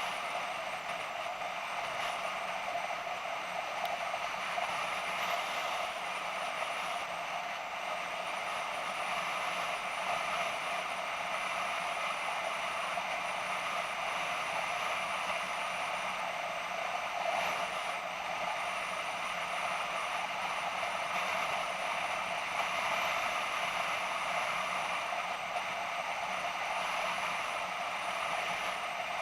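BMW F650GS motorcycle on the move: steady engine, wind and road noise picked up by a bike-mounted action camera, holding an even level throughout.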